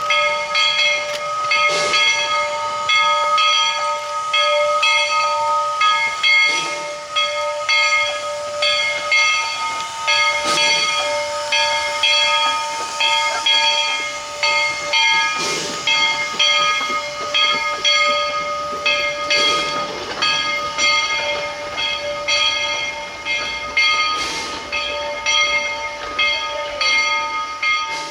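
Bridgton and Saco River Railroad steam locomotive #7 letting off steam: a loud hiss carrying a steady whine of several notes, with a fast even pulsing in the hiss and a soft knock every four or five seconds.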